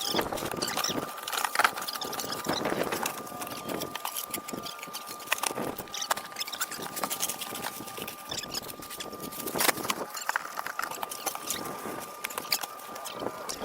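Irregular crackling and rustling, many small uneven clicks, over a faint steady high whine.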